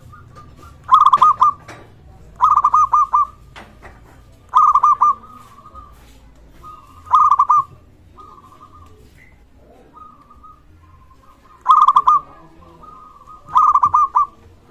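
Zebra dove (perkutut) cooing vigorously: six loud phrases of quick rolling notes, spaced a second or more apart, with softer drawn-out coos at the same pitch between them.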